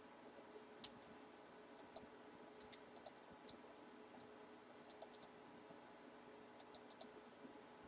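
Faint, scattered clicks of a computer keyboard and mouse, some in quick runs of three or four, over a faint steady hum.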